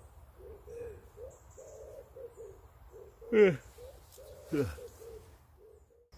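Birds cooing in soft, repeating low notes. Two louder calls that slide down in pitch with a wavering tone cut in about three and a half and four and a half seconds in.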